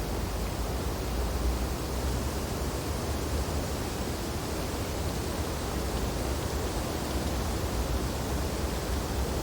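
Steady wind blowing through tree branches during snowfall: an even, unbroken rushing noise, heaviest in the deep low end.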